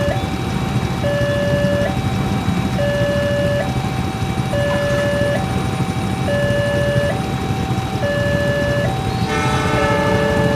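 Railway level-crossing warning signal sounding an electronic two-tone alarm that alternates evenly between a higher and a lower pitch, each held just under a second, over a steady low rumble. A brief horn toot cuts in about nine seconds in.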